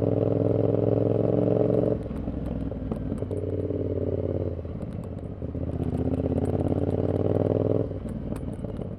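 Yamaha XSR700's parallel-twin engine through a short Kelpi full exhaust, ridden at a steady engine speed: the note is strong under throttle, backs off about two seconds in, picks up briefly, then pulls again for about two seconds before easing off near the end.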